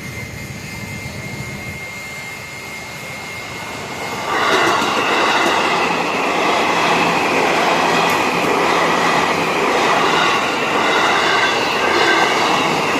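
A train passing a level crossing. It is fairly quiet at first, then about four seconds in it suddenly gets loud as the cars go by close, with a dense rolling noise and high-pitched wheel squeal.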